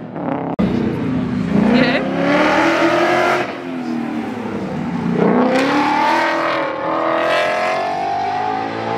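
A Ford Mustang competition car's engine revving hard under acceleration, pitch climbing, then dropping briefly about halfway through as it lifts or shifts, then climbing again. There is an abrupt cut just after the start.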